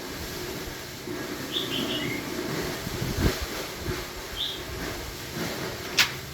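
Small bird chirping briefly three or four times over low background noise, with a couple of sharp knocks, the loudest shortly before the end.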